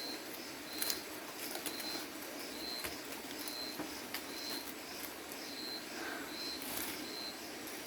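A short high-pitched animal call repeated evenly, a little faster than once a second, with scattered faint clicks.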